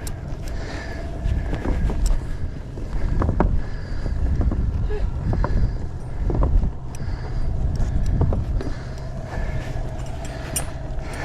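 Sailboat's engine idling in neutral, a steady low rumble, with wind buffeting the microphone and a few short knocks.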